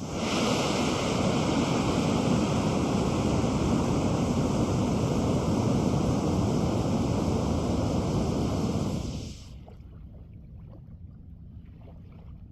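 Scrap grains of experimental solid rocket propellant (38mm Purple Nebula and 75mm White Blizzard) burning with a steady rushing roar. It ends about nine seconds in, followed by faint crackles.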